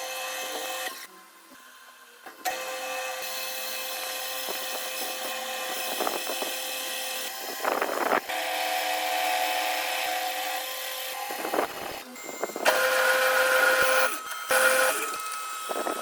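Small electric power tool motor running at a steady pitch in several stretches, stopping and restarting about four times, with short scraping strokes in the gaps.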